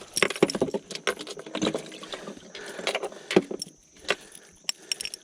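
Irregular metallic clicks and jangling, with a few sharper knocks, from fishing gear being handled in a bass boat.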